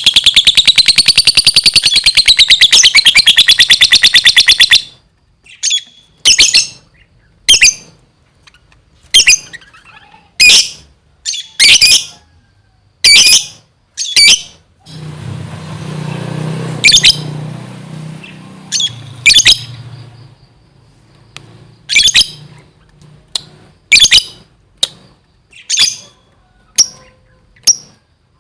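Lovebird singing hard: a loud, very fast chattering trill that wavers in pitch for about five seconds, then breaks off into single sharp, high chirps about once a second.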